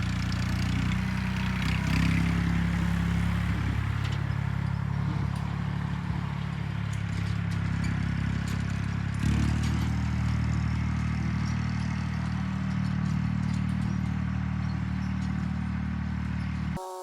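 Massey Ferguson tractor engine running steadily, its note shifting once about nine seconds in and cutting off abruptly just before the end.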